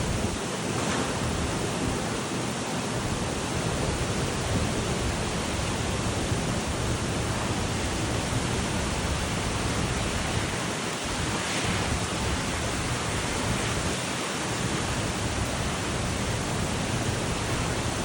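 Typhoon wind and driving rain making a steady, dense rushing noise, with a low rumble of gusts that rises and falls.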